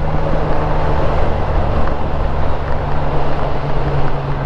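Honda Gold Wing GL1500's flat-six engine running at a steady cruise, a constant low drone mixed with wind and road rush.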